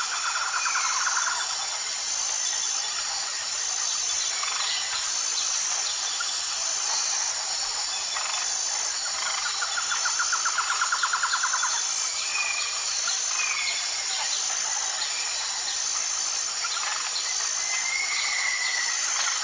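Natural outdoor ambience of birds calling: short whistled calls and rapid trills, about half a second in and again around ten seconds in, over a steady high-pitched pulsing chirr.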